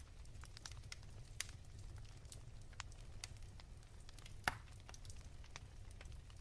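Wood fire crackling: irregular sharp pops and snaps over a low, steady rumble, the loudest pop about four and a half seconds in.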